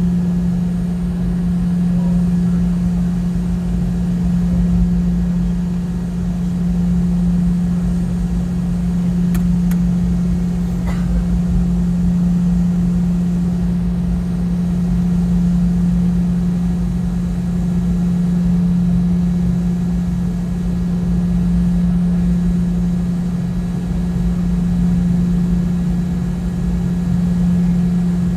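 Steady drone of a Boeing 717-200's rear-mounted Rolls-Royce BR715 jet engines heard inside the cabin, a constant hum over a low rumble with no change in pitch.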